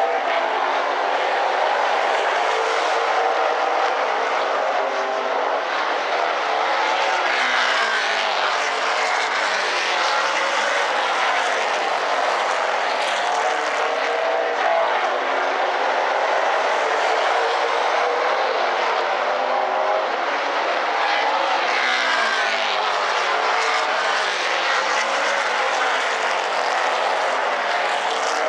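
A field of super late model race cars' V8 engines running at racing speed on a short oval track. Several engine notes overlap and rise and fall in pitch as the cars lap past, accelerating and lifting for the turns.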